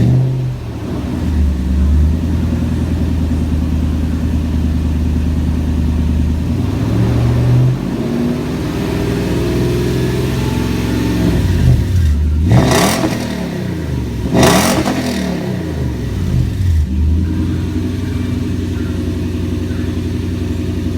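A Toyota Tundra's 4.7-litre V8 running through a modified exhaust, idling steadily. It is revved twice in quick succession about two-thirds of the way through, each rev rising and falling back, then it returns to idle.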